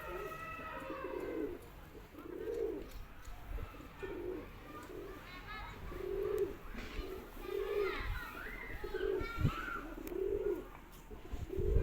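Domestic pigeon cooing, a low coo repeated roughly once a second.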